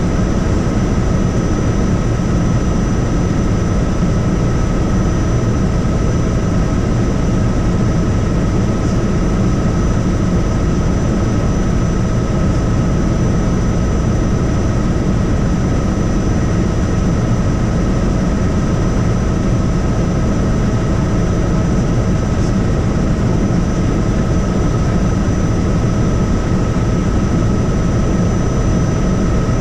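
Helicopter in flight: a steady deep rumble of rotor and engine with a constant high whine over it.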